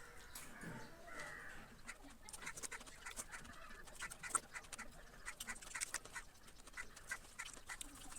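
Close-miked chewing and mouth sounds of someone eating fruit: irregular wet smacks and clicks, several a second.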